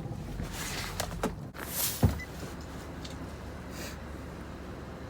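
A few light clicks and a short swish, then a vehicle door shut with a single solid thump about two seconds in. A low engine-like rumble fades out just before.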